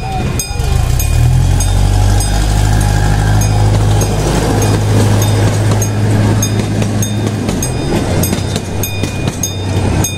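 Children's ride-on train running, a steady low hum with a run of regular clicks over it.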